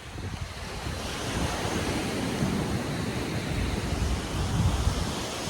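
Ocean waves washing onto a beach, a steady rush of surf that swells about a second in, with wind gusting against the microphone.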